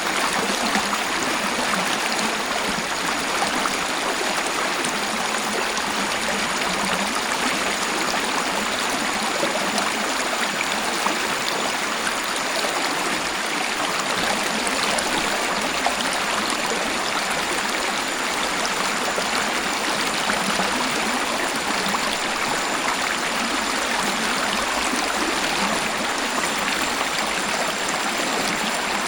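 Waterfall and flowing stream water rushing steadily, an even splashing hiss with no breaks.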